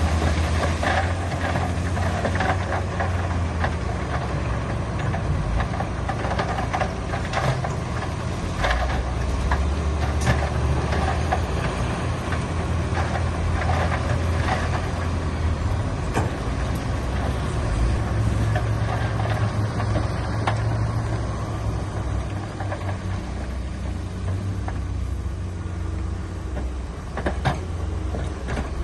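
Heavy diesel construction machinery running steadily, a deep engine hum, with scattered knocks and clanks.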